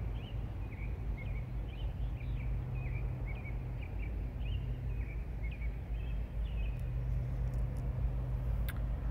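Birds chirping, a string of short high notes repeating a few times a second, over a steady low hum, with a faint click near the end.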